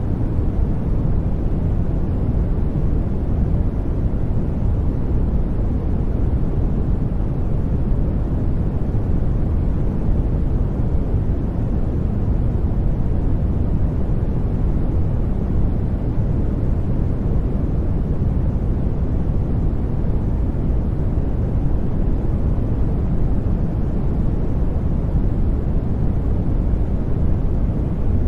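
Steady white-noise sleep track: an even, unbroken rush, heavy in the low end and dull in the highs, with no change over the whole stretch.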